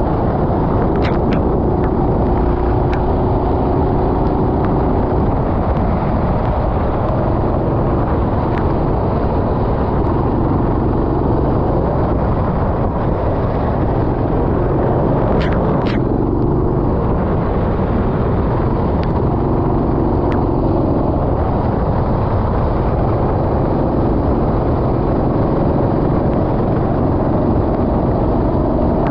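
Go-kart engine running continuously under racing load, its pitch rising and falling in stretches as the throttle is worked through the corners, with steady road and wind noise and a few brief clicks.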